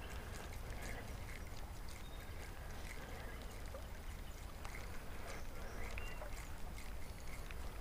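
Creek water running steadily, over a constant low rumble, with scattered light ticks.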